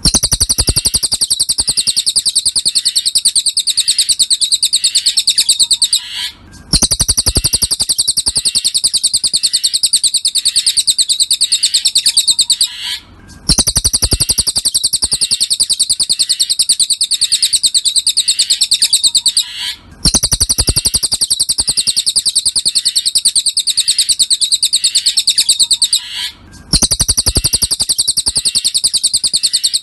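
Cililin bird song: a fast, unbroken twittering trill of high notes. It comes in stretches of about six and a half seconds, broken by brief gaps, each restart marked by a low thud, as a looped tutor recording for training cage songbirds.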